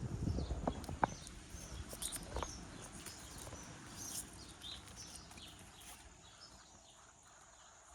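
Small birds chirping in short, high, repeated calls, with rustling and a few sharp knocks in the first two or three seconds that then die away.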